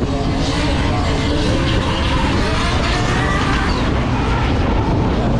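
Car engine running hard with a dense rumble, its pitch rising and falling as it revs, typical of a drift car on track.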